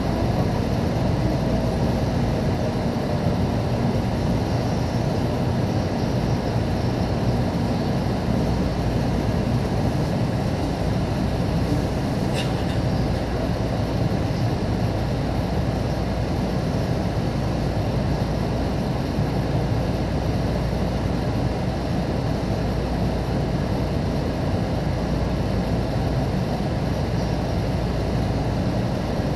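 Steady running noise of a Shinkansen train heard inside the passenger cabin: an even low rumble with hiss, with one faint click about twelve seconds in.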